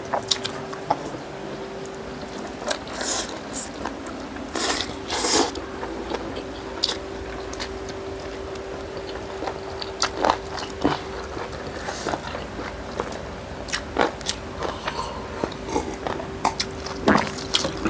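Close-up eating sounds from two people eating fried chicken legs and rice by hand: irregular moist chewing, biting and lip-smacking clicks. A faint steady hum runs underneath.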